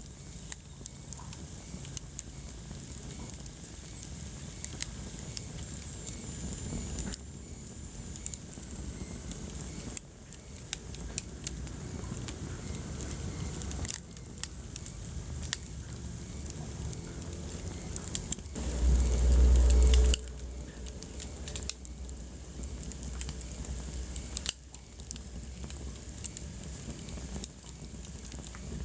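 Wood fire burning in a fireplace, crackling with many small sharp pops over a soft hiss. About two-thirds of the way in there is a brief low rumble lasting about a second and a half.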